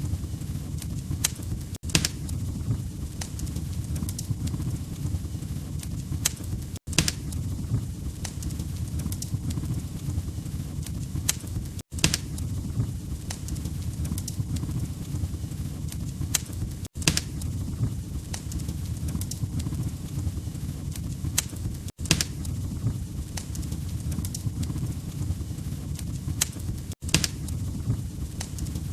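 Log fire in a fireplace crackling: a steady low rumble of flames with scattered sharp pops and snaps. The sound cuts out for an instant about every five seconds.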